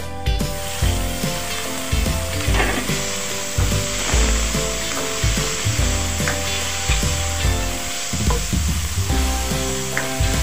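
Marinated chicken pieces frying and sizzling in oil in a nonstick wok, stirred with a spatula; the sizzle grows louder about half a second in. Background music with a steady low beat runs underneath.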